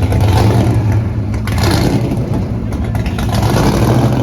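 A car engine running loudly, its sound rising and falling.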